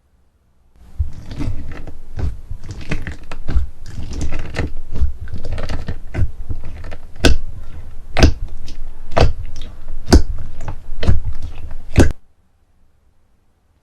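Slime being squeezed and pressed by hand with a dense crackling crunch. From about halfway there is a row of sharp pops about once a second, and it stops suddenly near the end.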